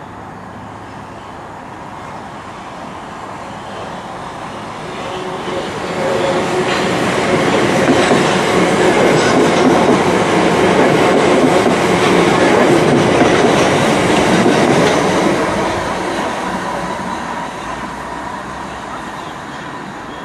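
A train passing by on the line: its running noise builds over the first several seconds, is loudest around the middle and fades away over the last few seconds.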